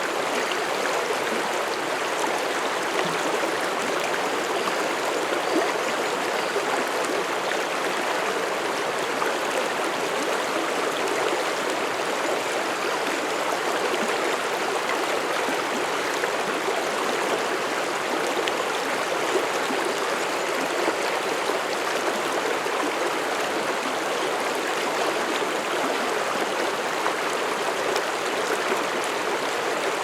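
Mountain stream flowing steadily over rocks: a constant rushing and babbling of water.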